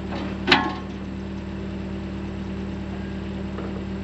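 Mini excavator's diesel engine idling steadily, with a single sharp clank about half a second in.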